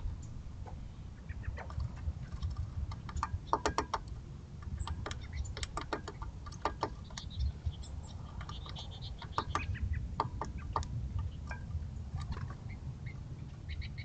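Birds calling off and on: short calls, some in quick runs of several notes, coming in a few clusters over a low steady rumble.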